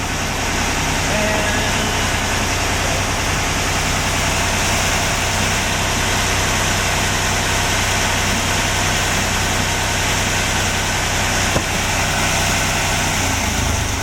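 Volvo three-cylinder marine diesel inboard idling steadily, with one short click about two-thirds of the way through. Near the end its note changes as the engine is being shut down.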